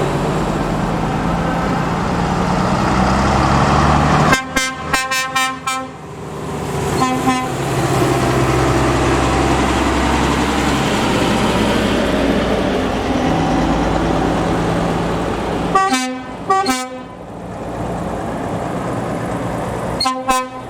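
Heavy trucks running past with a steady diesel rumble, their air horns sounded in groups of short toots three times: about four seconds in, again about a second and a half later, and near sixteen seconds.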